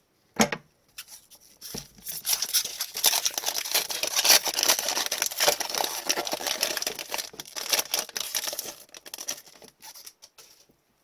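Upper Deck hockey card packs and cards being handled: a sharp snap under a second in, then a long dense crinkling and crackling of a foil wrapper being torn and cards being shuffled, dying away near the end.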